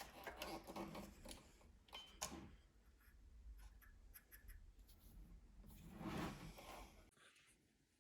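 Faint handling noises: soft rubbing and scraping with light clicks, over a low steady hum that stops about seven seconds in.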